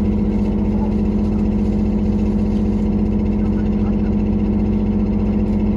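Diesel engine of a JR Kyushu KiHa 183-1000 series railcar heard from inside the passenger car: a steady, loud drone with a continuous rattling clatter running through it, which the rider suspects is an engine fault or age wear.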